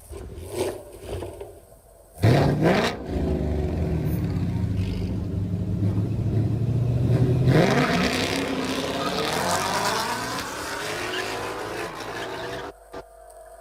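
A car engine comes in suddenly and loudly about two seconds in, its pitch rising as it revs. It holds a steady hard-running note, climbs again around eight seconds as it accelerates, then cuts off abruptly near the end.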